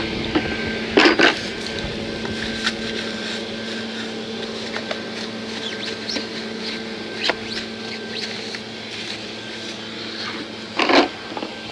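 A few short brush-scrubbing strokes on a dirt bike, one about a second in and two near the end, with scattered light clicks. Under them runs a steady machine hum.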